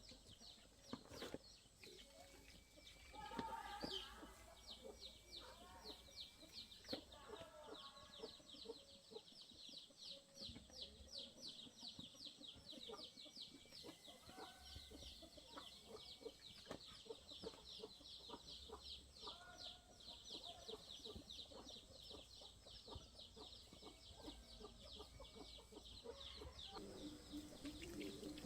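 Faint animal sounds: a high chirping repeated about four times a second throughout, with scattered lower calls mixed in.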